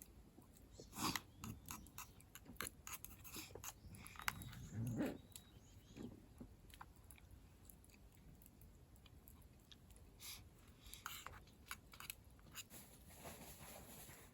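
Scattered crunching clicks and soft taps, irregular, with a few louder crunches in the first five seconds and another cluster near the end.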